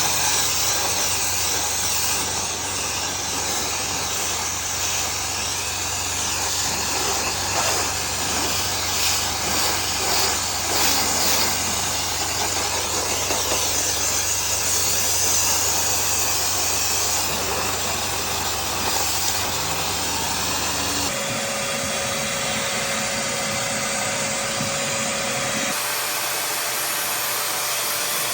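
A motorized duct-cleaning machine running with a steady whirring hum and hiss. The sound changes abruptly about three quarters of the way through and again near the end.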